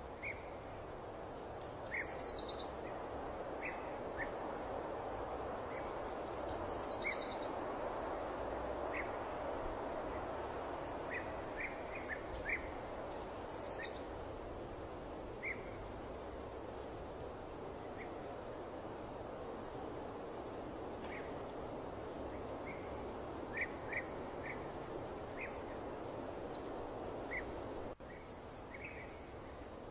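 Birds chirping and calling over a steady rushing background noise that slowly swells and eases. Short chirps come throughout, and a quick descending trill repeats a few times in the first half. The background drops abruptly near the end.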